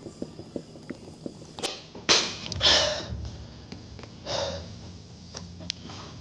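A person breathing out sharply and loudly several times: two strong breaths about two and three seconds in and a weaker one past four seconds. A faint music beat fades out in the first second.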